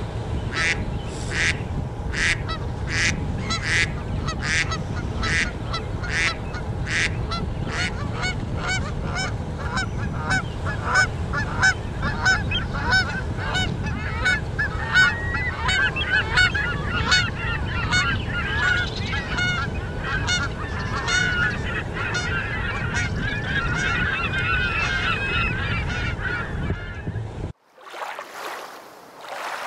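A flock of Canada geese honking, over a steady low rumble. At first single honks come about two a second, then many geese call at once in a dense chatter. The calling stops abruptly near the end.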